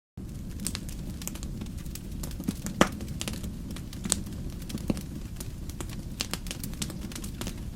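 Wood fire crackling, with irregular sharp pops and snaps over a steady low rumble. It starts abruptly out of silence at the beginning, and the loudest pop comes about three seconds in.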